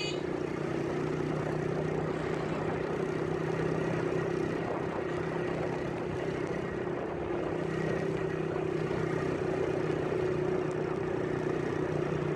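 A vehicle engine running steadily: an even drone over a noisy background that holds at one pitch throughout.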